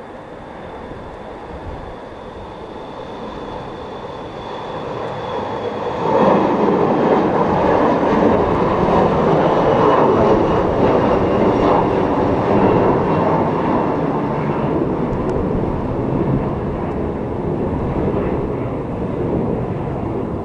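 Aircraft engine noise as a plane passes close on takeoff or landing: it builds gradually, jumps sharply louder about six seconds in, then slowly eases. A faint high whine is heard in the first few seconds.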